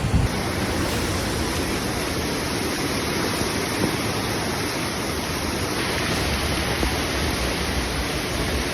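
Steady, dense rushing noise of a typhoon storm: torrential rain and wind.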